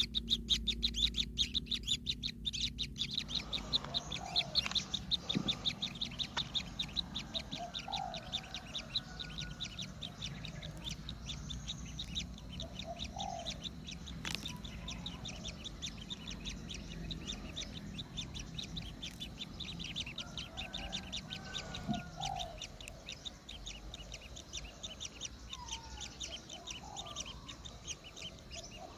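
Kingfisher nestlings begging: fast, high-pitched chirping repeated many times a second, loudest in the first few seconds. Short lower calls sound every couple of seconds.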